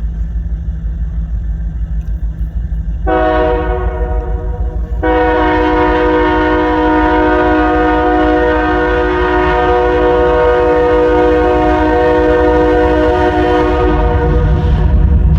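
Norfolk Southern freight locomotive air horn sounding a short blast, then a long, loud, steady blast, over the low rumble of the approaching train. The rumble grows louder near the end.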